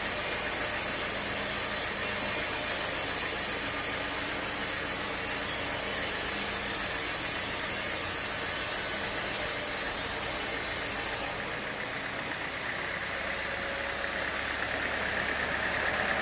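Engine-driven sawmill machinery running steadily with a hissing noise; about eleven seconds in the sound changes abruptly, the hiss cutting out and a steadier engine hum carrying on.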